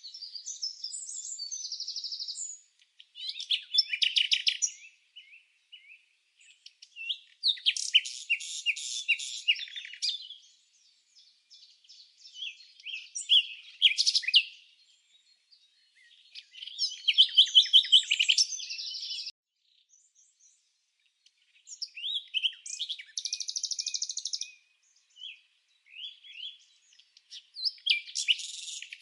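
Songbird song: separate phrases of rapid, high-pitched chirps and trills, each lasting a second or few, with short pauses between them.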